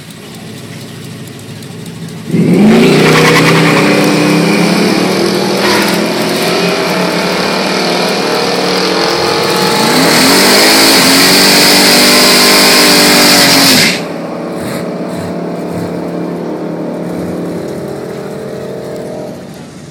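Drag-racing 383 Chevy small-block V8 at full throttle off the line: it launches suddenly about two seconds in and the revs climb, then drop and climb again at a gear change. About fourteen seconds in it cuts back sharply and runs on more quietly.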